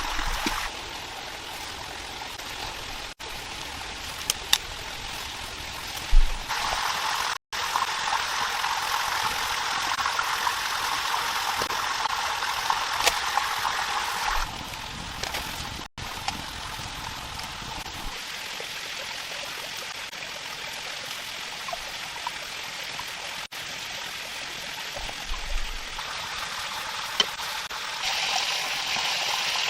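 Running water, like a stream, making a steady rushing hiss. Its loudness jumps up or down abruptly several times, with a few faint low knocks.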